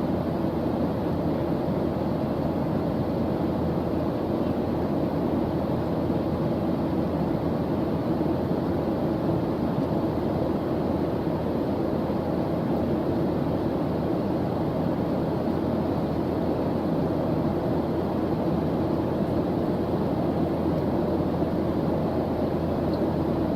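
Steady white-noise track, weighted low into a deep, even rush that does not change.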